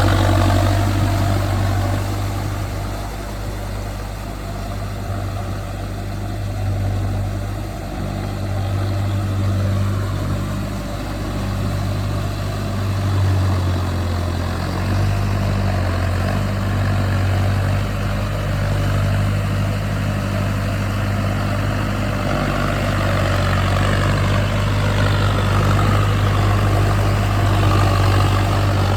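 Mahindra Arjun Novo tractor's diesel engine running steadily, a low hum with small shifts in pitch and level.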